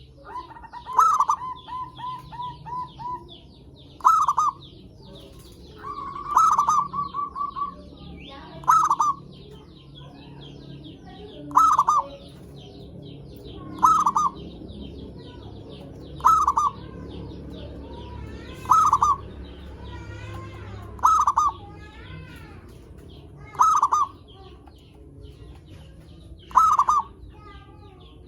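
Zebra dove (perkutut) cooing: a short, loud call repeated about every two and a half seconds, eleven times. The first two run on into a fast stuttering string of notes. Faint high chirping of small birds runs underneath.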